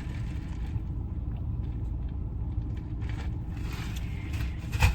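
Steady low rumble of a car engine running, heard from inside the cabin. A few brief higher noises come in the second half, and a sharp click sounds just before the end.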